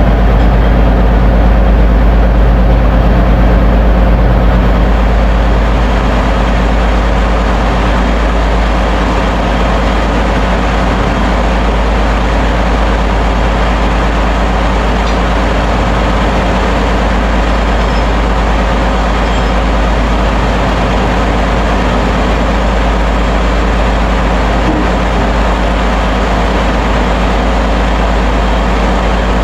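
Loud, steady drone of a ship's engine-room machinery running, a deep engine hum with steady tones over it. It eases a little about five seconds in and then holds even.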